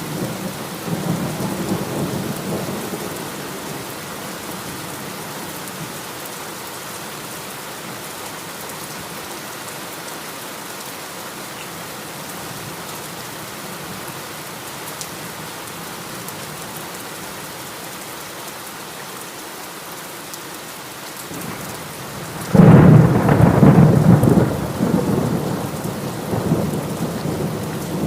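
Heavy rain falling steadily, with low thunder rumbling in the first few seconds. About 22 seconds in, a loud clap of thunder breaks and rumbles away over several seconds.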